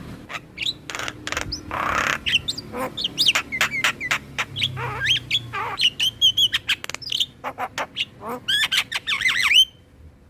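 Myna song, of the kind played to train jalak kebo (Javan mynas): a rapid, varied chatter of sharp clicks, quick whistles and harsh squawks, with a rasping note about two seconds in. It stops abruptly near the end.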